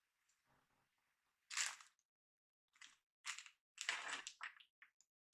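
Plastic crackling and crunching in short bursts as the CPU liquid cooler's mounting backplate is handled and fitted to the motherboard. The first burst comes about a second and a half in, followed by a quick series of shorter ones.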